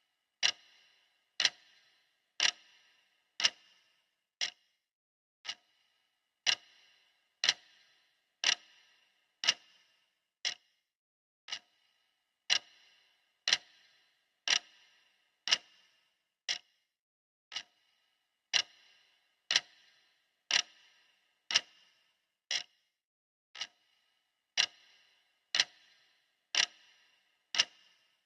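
Clock ticking steadily, one sharp tick each second, each tick with a brief metallic ring.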